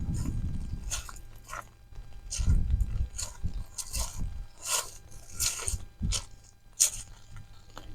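Strong wind buffeting the microphone in gusts, with a series of irregular short crunching and rustling noises.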